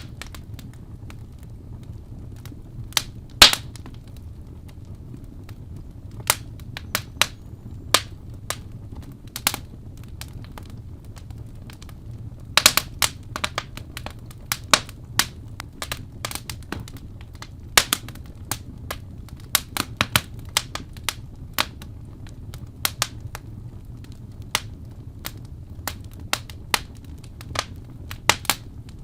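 Wood fire burning in a fireplace, crackling with irregular sharp pops and snaps over a steady low rumble; the loudest pop comes about three and a half seconds in, with a quick flurry of pops near the middle.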